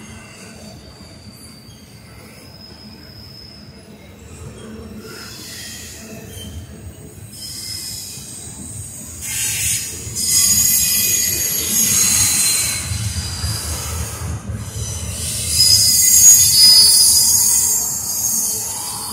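Double-stack intermodal freight train rolling past, a steady rumble under high-pitched wheel squeal that swells about halfway through and is loudest near the end.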